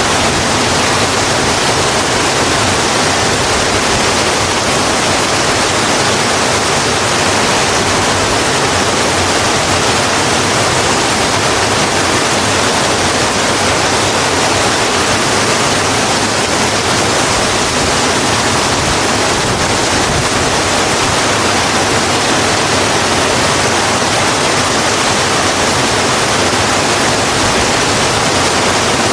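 Steady rain falling, an even, unbroken hiss of water with no distinct drops, thunder or music.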